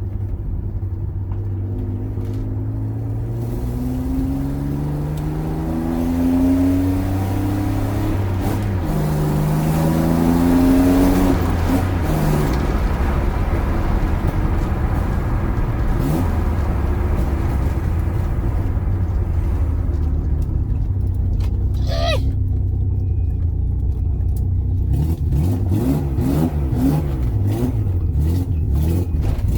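BMW E36's M50B25 straight-six with a full exhaust, accelerating hard. Its pitch climbs, drops at a gear change, then climbs again up to about eleven seconds in, after which the engine runs on more steadily at road speed.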